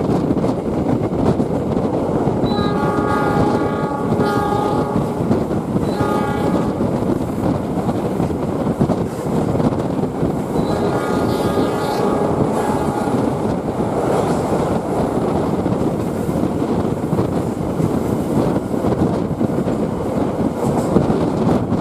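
KA Cikuray passenger train running along the track, a steady loud rumble heard from aboard, with the locomotive's horn sounding a long blast about three seconds in, a short one near six seconds, and another long blast about eleven seconds in.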